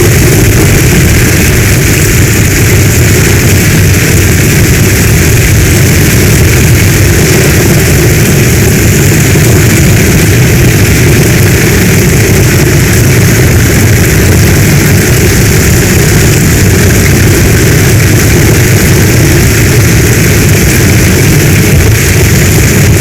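Heavy storm rain falling steadily: a dense, unbroken wash of noise with a strong low rumble beneath it.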